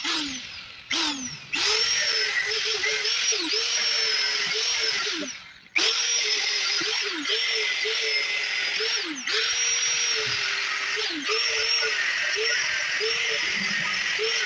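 Electric angle grinder grinding steel: a steady high motor whine over harsh grinding hiss. The pitch sags each time the disc bears on the metal. It cuts out briefly twice, about a second in and around five seconds in, then starts again.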